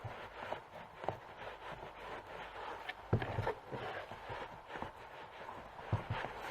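Scuffing and light knocks of a chainsaw boot being handled and rubbed with waterproofing wax, with one louder knock about three seconds in.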